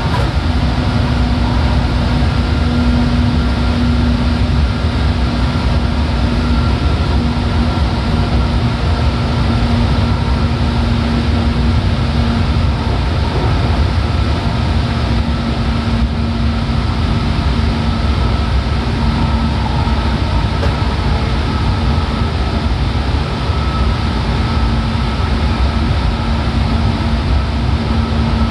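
Seibu 4000 series electric train running, heard from inside the passenger car: a steady rumble with a constant hum.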